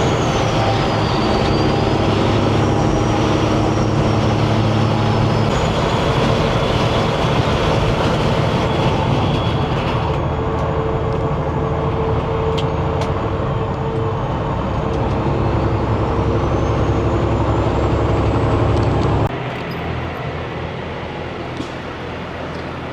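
Semi truck's diesel engine pulling steadily through its big stacks, with a high turbo whistle that falls early on and climbs again about two-thirds of the way through. The engine sound drops off abruptly near the end, and the truck runs on more quietly.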